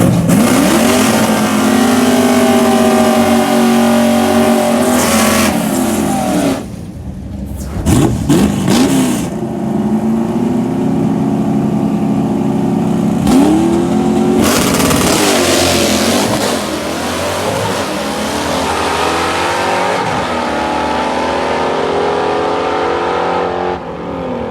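Drag racing car engines revving hard at high rpm. The pitch climbs, holds, drops off about six seconds in, then climbs again around eight and thirteen seconds in before running on steadily.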